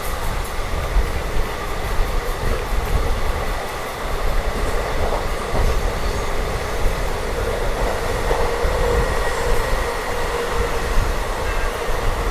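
Indian Railways passenger express train running on the line: a continuous rolling rumble of wheels on rail, with a faint steady tone held over it.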